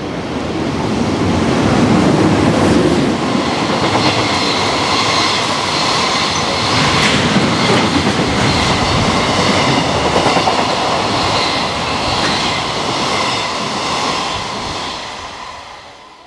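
A JR Freight EH500 electric locomotive passes at speed, followed by a long rake of container wagons rushing by with wheels clacking over the rail joints and a steady high whine over the rumble. The noise is loudest a couple of seconds in as the locomotive goes by and fades out near the end.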